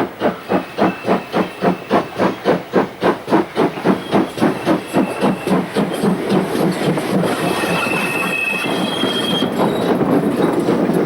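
GWR City class 4-4-0 steam locomotive City of Truro working under steam, its exhaust beats quickening from a few a second to a rapid chatter. About halfway through they blend into a steady rush of the train running by.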